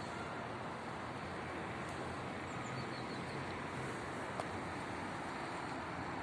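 Steady background noise with a few faint, short high chirps and one brief click about four and a half seconds in; no clear meowing.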